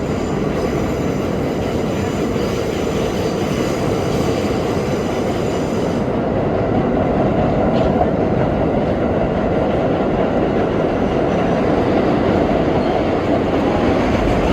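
R32 subway car running at speed, a steady, loud rumble of steel wheels on rail heard from inside the car.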